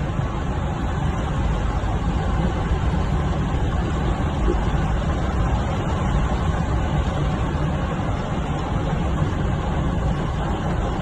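Steady street traffic noise, an even wash of sound with a strong low rumble and no single vehicle standing out.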